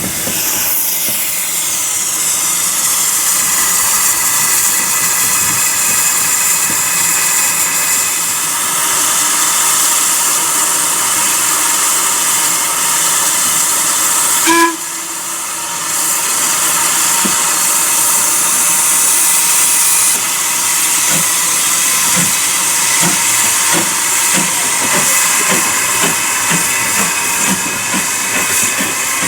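Steam locomotive letting off steam: a loud, steady hiss, briefly breaking off about halfway through.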